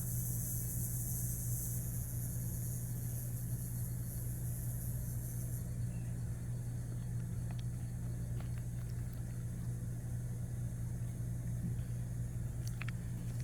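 A steady low hum that does not change, with a high hiss that stops about a third of the way in and a few faint clicks near the end.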